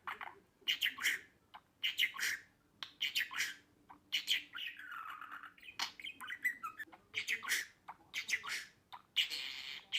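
Budgerigar chirping and chattering in short squawky bursts about once a second, with a longer, harsher call near the end.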